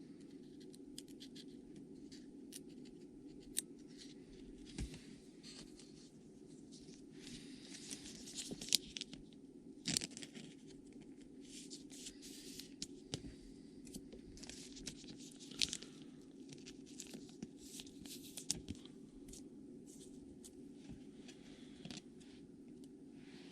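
Trading-card packs being torn open and the cards handled: scattered short tearing and rasping strokes, busiest in the middle, over a steady low hum.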